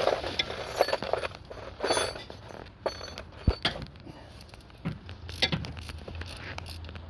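Hand wrench working a bolt loose in the engine bay: scattered metal clicks and knocks of the tool on the fastener.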